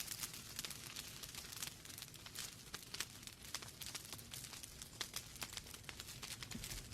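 Wood fire crackling in a fireplace: irregular sharp snaps and pops, several a second, over a steady low rumble of the burning logs.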